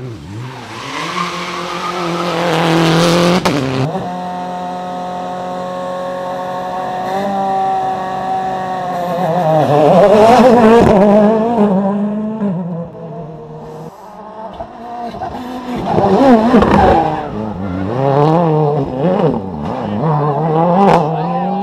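World Rally Car engines, turbocharged 1.6-litre four-cylinders, revving hard as the cars run through a stage. The pitch climbs and drops repeatedly with gear changes and braking, loudest around the middle and again near the end.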